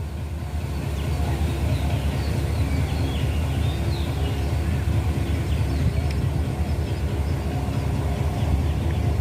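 A steady, low motor rumble with scattered short high chirps, like small birds, above it.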